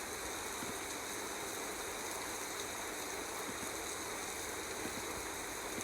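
Steady rushing of running water, an even unbroken wash of sound.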